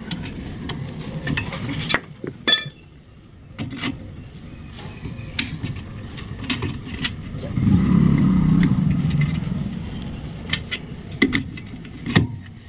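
Loose metal wheel-bearing parts (nut, bearings, axle) clinking and knocking together as they are handled, with a low rumble that swells for a couple of seconds in the middle, like a vehicle passing.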